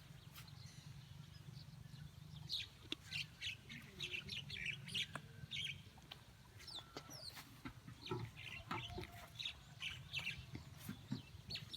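Birds chirping in many short, high calls, some sliding down in pitch, over a steady low rumble.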